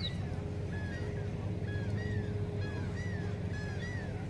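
A bird calling over and over in short, arched calls about twice a second, over a steady low rumble.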